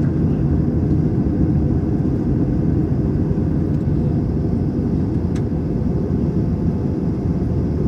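Steady low rumble inside an Airbus A321 cabin: jet engine and airflow noise, with a faint click about five seconds in.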